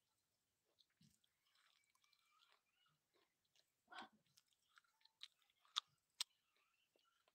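Close-up chewing and biting of a chunk of dry multani mitti (fuller's earth clay), soft and faint, with a few sharp crunches in the second half.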